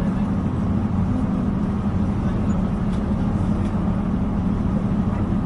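Steady rumble and drone of a diesel multiple-unit train, heard inside the passenger carriage, with a constant low hum from the engine and running gear.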